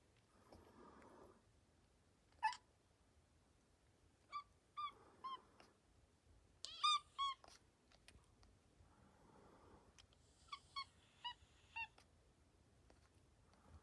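Cat making short, high, chirping meows, about a dozen quick calls in small bursts of three or four, each rising and falling in pitch.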